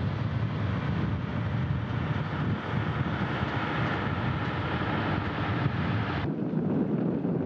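Rocket-transporter train rolling slowly along the railway: a steady low rumble with a hiss over it. The hiss drops away suddenly about six seconds in, leaving the rumble.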